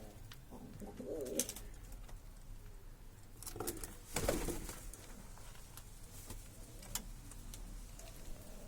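Pigeon cooing in short, low, wavering phrases, about a second in and again near four seconds, with a few sharp clicks between.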